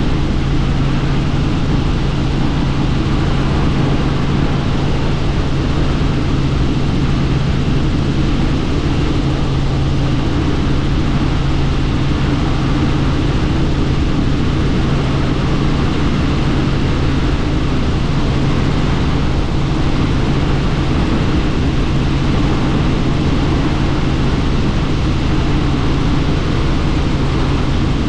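Helicopter in flight heard from inside the cabin: a loud, steady low drone from the rotors and engine over rushing wind noise, unchanging throughout.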